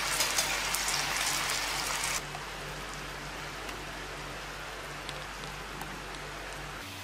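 Venison, onion and bell pepper stir-fry sizzling and crackling in a frying pan; about two seconds in the sizzle drops away abruptly, leaving a fainter steady hiss.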